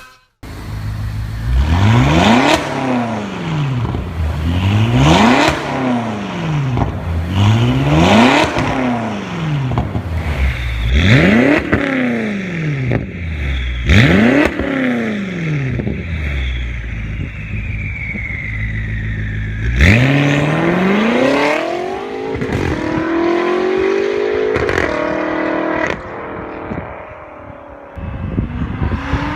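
BMW X6 M's twin-turbo V8 through its exhaust, blipped to about five sharp revs a few seconds apart, each rising and falling back. About two-thirds of the way in it starts a long climb in pitch that rises in several steps, as when accelerating through the gears.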